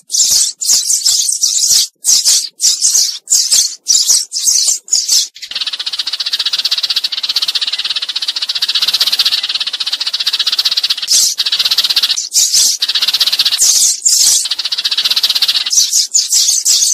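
Sparrows chirping loudly as a flock-calling lure for trapping: a quick run of separate high chirps, then about ten seconds of continuous chattering, then separate chirps again near the end.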